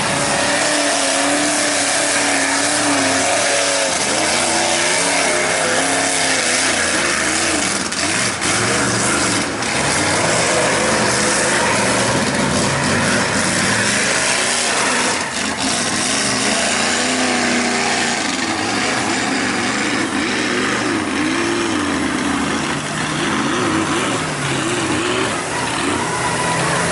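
Mud truck engine revving hard, its pitch surging up and down again and again over a loud, steady rush of noise.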